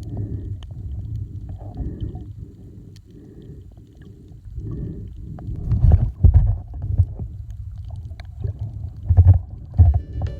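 Kayak paddling: muffled water sloshing against the boat in a quick, even rhythm, with heavier low thumps in the second half.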